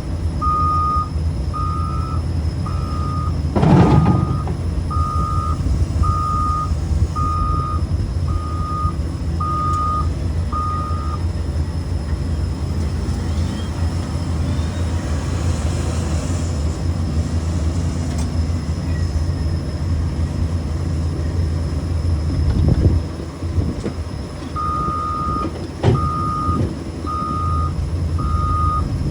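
A heavy machine's backup alarm beeping in a steady run over a low diesel engine hum. The beeping stops about eleven seconds in and starts again near the end. A loud knock comes about four seconds in, and two duller thumps follow later.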